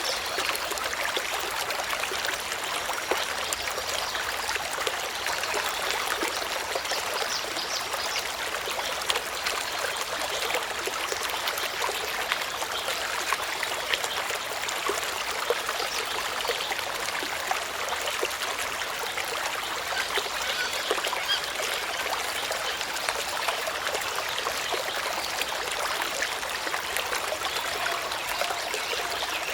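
Steady sound of running or falling water, an even trickling hiss with many small drips and splashes.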